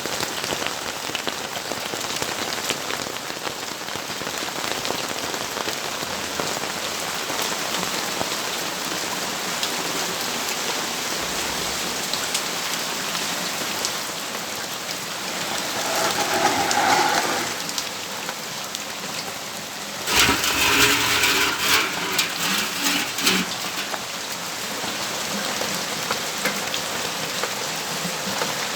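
Steady rain falling, a continuous hiss with close drops pattering. Around sixteen seconds in, and more strongly from about twenty seconds in for a few seconds, a louder swelling noise with a faint hum rises over the rain.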